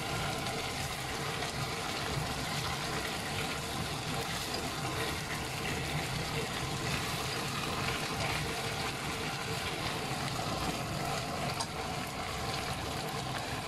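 Chicken pieces for adobo sizzling steadily in a pot as they are turned over with a spatula.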